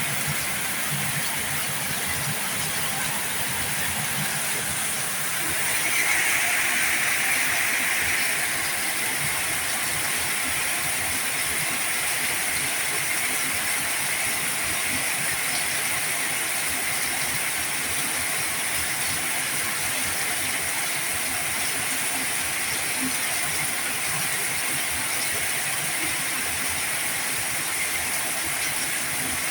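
Heavy rain falling, a steady dense hiss, swelling briefly louder about six seconds in.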